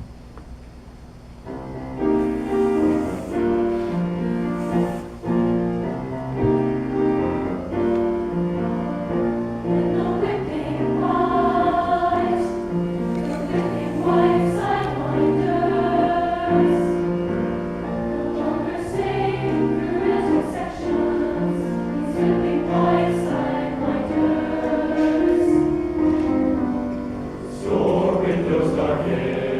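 Concert choir singing with piano accompaniment, starting about two seconds in after a moment of quiet.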